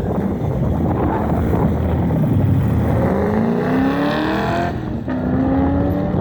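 Race-prepared truck engine accelerating hard through an autocross course: the engine pitch climbs for a second and a half, drops briefly near the end as it shifts or lifts, then climbs again.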